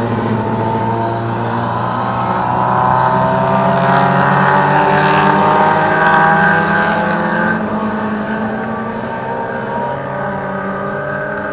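Historic Mini racing car's A-series four-cylinder engine running hard, its pitch climbing for several seconds under acceleration, then easing and dropping back about seven and a half seconds in.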